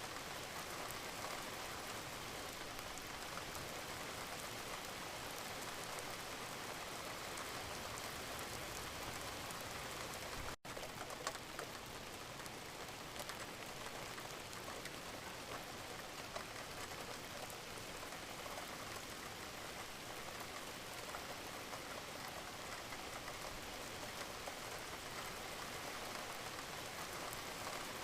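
Steady rain, an even hiss of falling water with fine pattering drops. About ten seconds in, the sound cuts out for an instant and then resumes.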